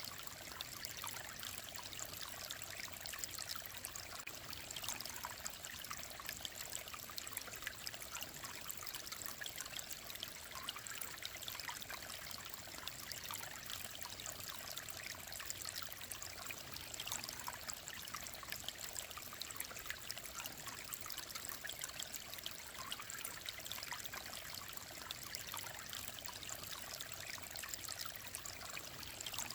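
Clear mountain stream flowing and babbling steadily, a dense, even patter of small splashes and trickles.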